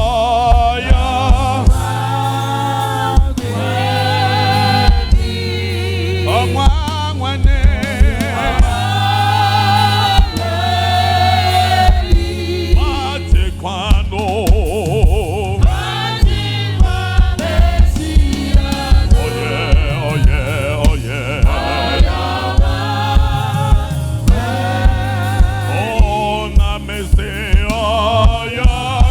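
Gospel worship song: a choir singing with vibrato over a steady bass and an even beat.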